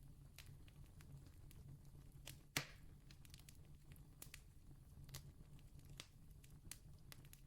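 Campfire wood crackling faintly: scattered small sharp pops, with one louder snap about two and a half seconds in, over a low steady hum.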